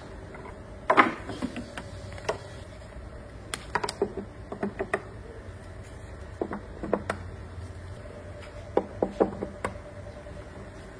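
Irregular clicks and knocks, some in quick clusters, over a steady low hum; the loudest knock comes about a second in.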